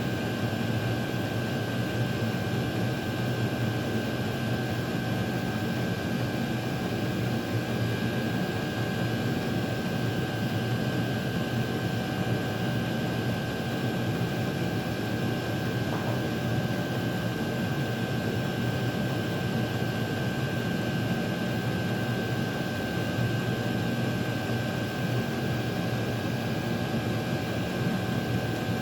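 Chinese diesel air heaters running their cool-down cycle: a steady fan whir with a thin constant whine over it.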